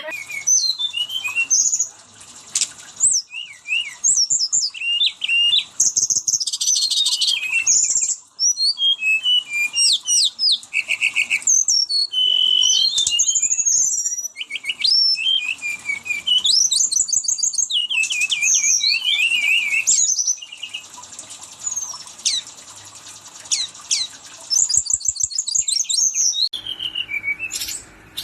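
Brown-chested jungle flycatcher singing a long, fast run of high chirps, sweeping whistles and rapid trills, with a short lull about three-quarters of the way through.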